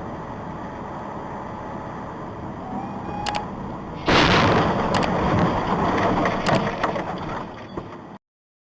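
Steady road noise, then about four seconds in a sudden loud vehicle crash with crunching and breaking sounds and sharp cracks for about three seconds, fading before the sound cuts off.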